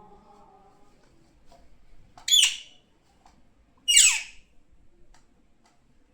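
Pet parrot giving two loud squawks about a second and a half apart, the second sliding down in pitch.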